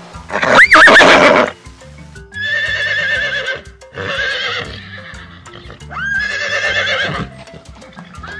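A horse whinnying: one loud call with a quick rise and fall in pitch, then three long, quavering whinnies, over background music with a low stepping bass line.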